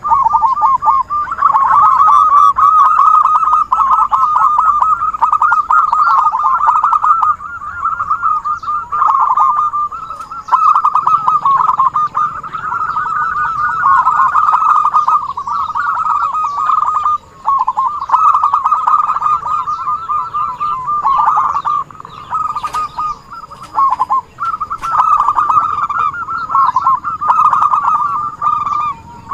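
Zebra doves (perkutut) calling vigorously in rapid, rolling cooing phrases pitched around a single note. The calling is almost continuous, with brief pauses, as used in a lure recording.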